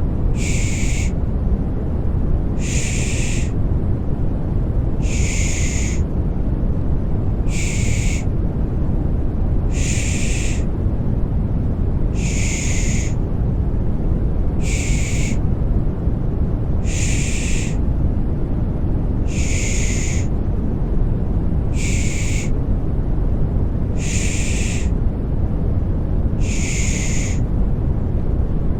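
Rhythmic baby-soothing shushing ('pış pış'), a 'shh' hiss repeated about every two and a half seconds, over steady deep white noise.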